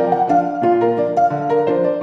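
Background music: an upbeat keyboard tune of quick, piano-like notes over a bouncing bass line.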